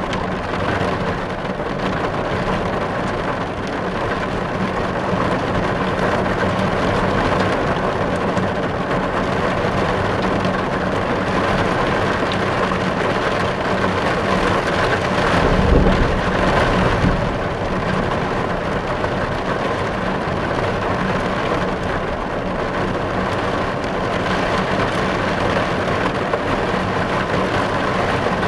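Heavy rain pelting a car's windows and roof, heard from inside the cabin as a dense, steady hiss. A brief low rumble swells and fades about halfway through.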